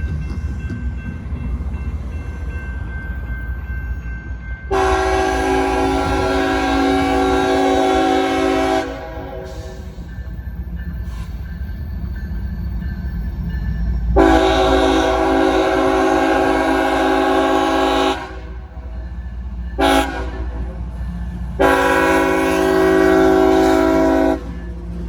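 Freight locomotive's multi-chime air horn sounding the grade-crossing signal: two long blasts, one short and a final long one, over the steady low rumble of the passing train.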